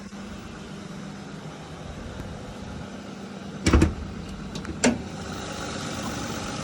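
Toyota 7M-GE 3.0-litre inline-six idling with a steady hum. Two sharp knocks sound about a second apart midway.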